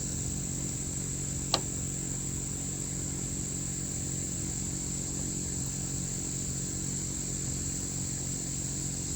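A steady low mechanical hum with crickets chirping in the background, and a single sharp click about one and a half seconds in.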